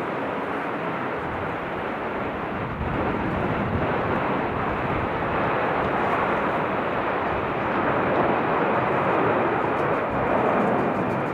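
Steady rushing roar of a jet airliner's engines, swelling slightly louder about eight seconds in.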